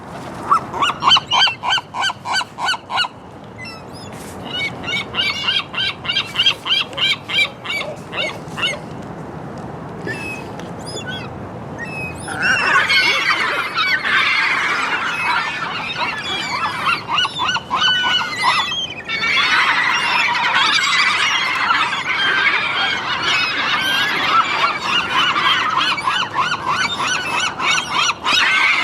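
Gulls calling: first runs of quick, repeated honking calls, a few a second, then from about halfway through many gulls calling at once in a dense chorus.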